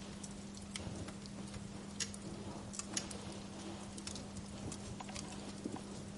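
Wood fire crackling in a fireplace: irregular sharp pops and snaps over a soft steady hiss, with a low steady hum underneath.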